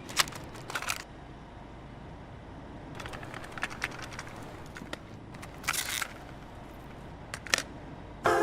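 Faint scattered clicks and ticks over a low hiss, some in quick clusters, with no music.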